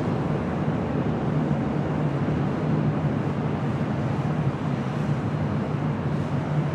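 Jet airliner engines running in a steady rumble with a constant low hum, mixed with wind noise on the microphone.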